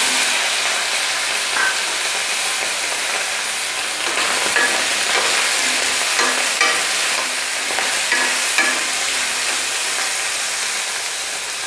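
Boiled potato cubes sizzling in hot oil in a kadhai, with a spatula scraping and knocking against the pan every second or so as they are stirred. The sizzle eases a little toward the end.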